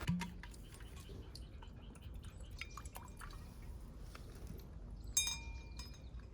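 Scattered light clicks, then a sharp metallic clink about five seconds in that rings briefly with a clear chime-like tone.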